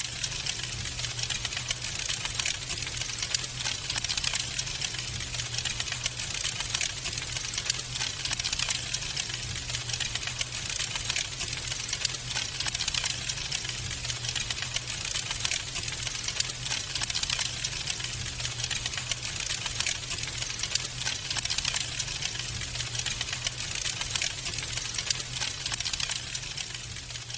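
Wood fire burning in a fireplace: dense, rapid crackling and small pops over a steady hiss, with a low steady rumble beneath and a couple of louder pops.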